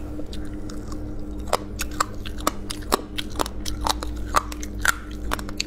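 Close-up crunching and chewing of fried silk moths: sharp, irregular crunches a few times a second over a steady low hum.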